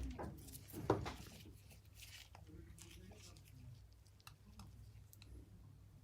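Faint clicks and scraping of hand work on a phone's screen glass, with a sharper knock about a second in, over a low steady hum.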